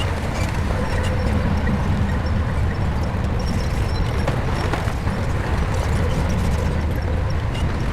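Shantui bulldozer's diesel engine running steadily at working load, with scattered light clicks and knocks over the low engine drone.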